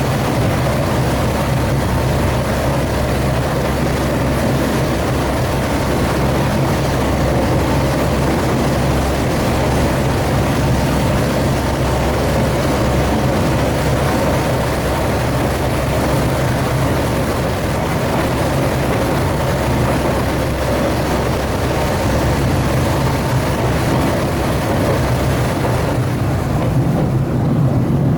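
Open-air tourist rail cart running steadily along the track: a continuous low engine drone mixed with wheel and rail noise.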